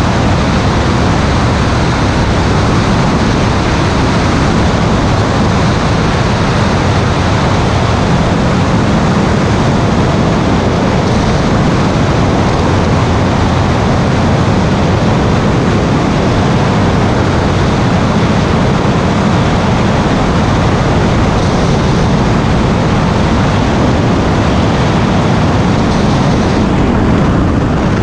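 Steady, loud noise of an aircraft in flight, engine and rushing air blended into an even roar with no clear tone.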